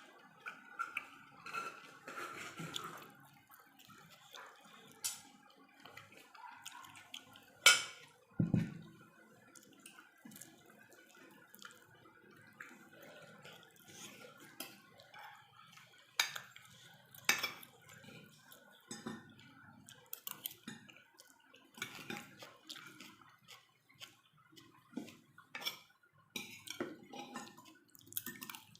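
Close-up eating sounds of pork: wet chewing and mouth smacking, with utensils clicking against a plate every second or so. The sharpest click comes about eight seconds in.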